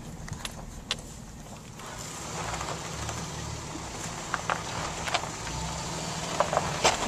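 An off-road Jeep's engine running with a low rumble that grows louder about two seconds in. Scattered sharp clicks and knocks come over it, the loudest near the end.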